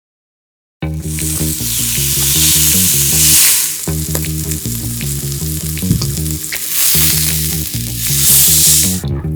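Korean hanwoo beef sizzling loudly on a hot grill, with scattered pops of fat, starting suddenly about a second in. Light background music plays underneath.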